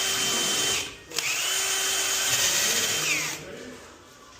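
Power drill running in two bursts: it stops just under a second in, then starts again with its whine rising as the motor spins up, runs steadily for about two seconds and winds down with a falling whine.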